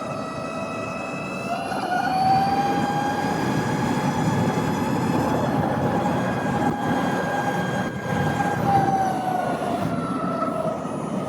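Harley-Davidson LiveWire electric motorcycle underway, its motor and drivetrain giving a high whine over wind rush. Near two seconds in the whine rises in pitch and the rush grows louder as the bike speeds up; the whine holds steady, then drops in pitch near the end as the bike slows.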